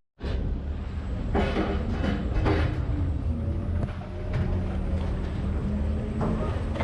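Boat engine running steadily with a low hum, and a few brief louder noises over it about one and a half to two and a half seconds in.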